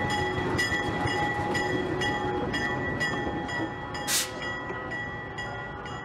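Narrow-gauge train rolling slowly past an idling diesel switcher locomotive. A steady whine fades as the train pulls away, under regular wheel clicks about twice a second, with a brief hiss about four seconds in.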